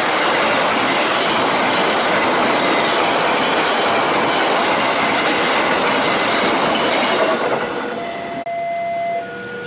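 Passenger train coaches rolling past close by, a loud steady rush of wheel-on-rail noise with clickety-clack. About seven and a half seconds in it gives way to an alternating two-tone electronic warning tone that switches pitch about once a second.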